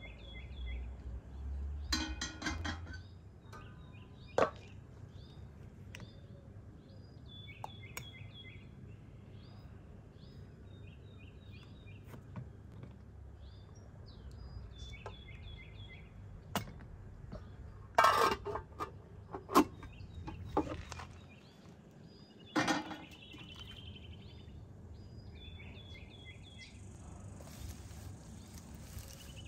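A small bird chirping the same short phrase over and over, every second or two. Now and then metal cookware clinks and clatters as it is handled and set down, the loudest a few sharp clanks about two-thirds of the way through.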